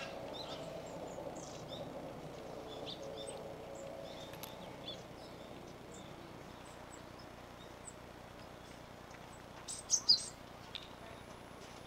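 Long-tailed tits calling: thin, high, short calls scattered throughout, with a louder cluster of calls about ten seconds in.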